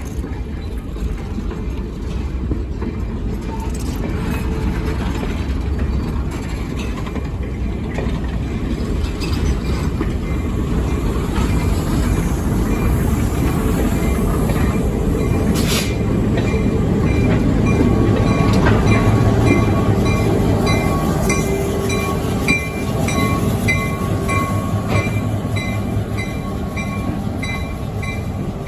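A diesel locomotive and its train passing, a heavy rumble that builds to its loudest about two-thirds through. A sharp click comes near the middle, and high ringing tones pulse in a quick rhythm in the last third.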